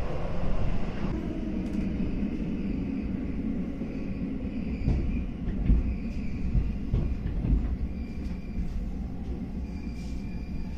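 Inside a JR West 221 series electric train running into a station: a steady rumble of wheels on rail, with several sharp knocks from the wheels over rail joints about halfway through, and faint high tones in the later part as the level eases off.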